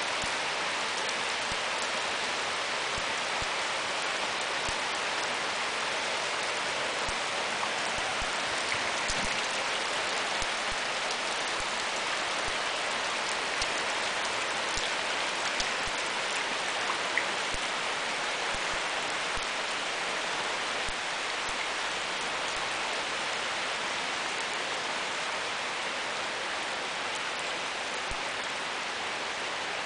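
Heavy rain pouring steadily onto wet asphalt and puddles: a dense, even hiss sprinkled with sharper ticks of individual drops.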